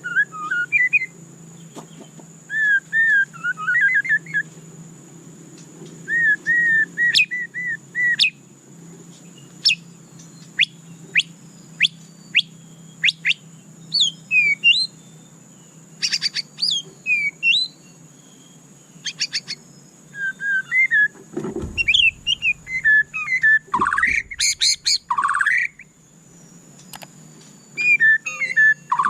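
White-rumped shama singing a varied song in separate phrases: runs of repeated whistled notes, fast upward-sweeping whistles and a few dry rattles, with short pauses between phrases. A faint steady high tone runs behind it.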